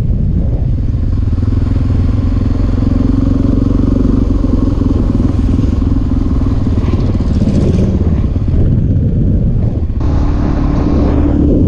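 Suzuki DR-Z400SM's single-cylinder four-stroke engine, fitted with an FCR carburettor, running steadily as the bike rides along, with wind rushing over the microphone. The engine note dips briefly near the end, then pulls on at a steady higher note.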